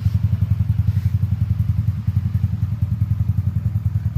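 Yamaha Mio Sporty scooter's single-cylinder four-stroke engine idling steadily through a Black Devil STR aftermarket exhaust with a straight header pipe: an even, deep pulsing at about ten beats a second.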